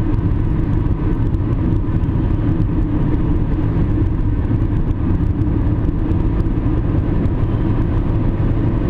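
A vehicle driving on the road: steady engine and road rumble.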